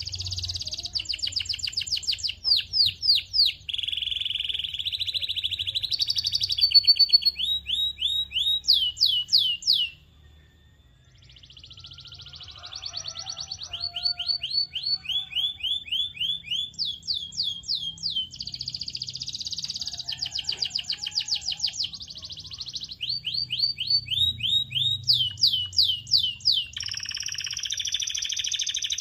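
Canary singing a long song made of fast trills: runs of rapidly repeated notes, some sweeping down in pitch and others held as buzzy rolls. The song breaks off briefly about ten seconds in, then resumes.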